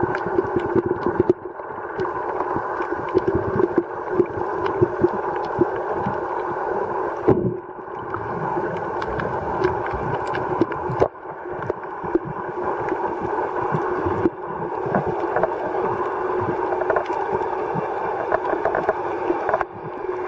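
Muffled underwater sound recorded through a camera's waterproof housing: a steady droning hum with scattered sharp clicks and crackles. The sound dips briefly several times.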